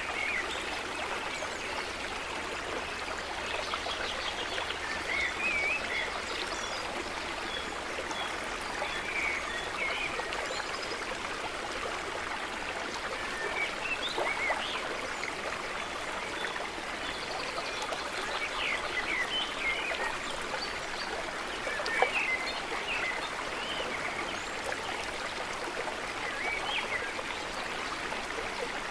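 Stream running with a steady rush of water, and short bird chirps coming and going above it. A single sharp tick about three-quarters of the way through.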